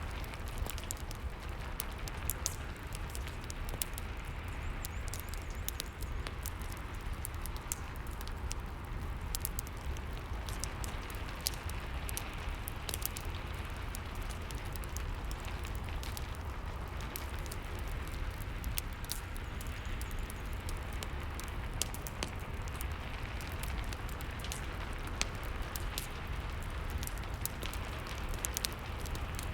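Rain and fireplace ambience: a steady hiss of rain over a low rumble, with frequent sharp crackles from the fire scattered throughout.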